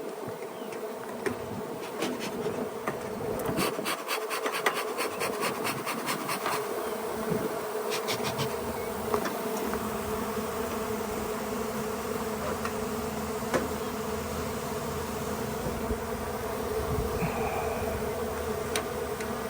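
A mass of honeybees buzzing steadily in one even drone, with a quick run of clicks about four to six seconds in.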